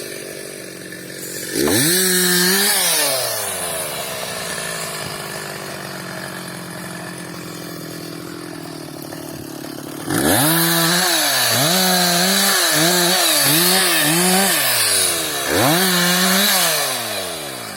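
Two-stroke chainsaw bucking a felled tree. It revs up about a second and a half in and falls back to idle, then runs at high revs again from about ten seconds in, its pitch dipping and recovering several times, before dropping back near the end.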